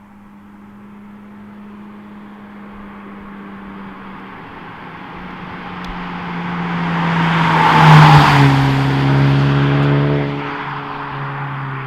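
A motor vehicle approaching and passing close by. Its sound swells to a peak about eight seconds in, and the engine note drops in pitch as it goes past, then fades.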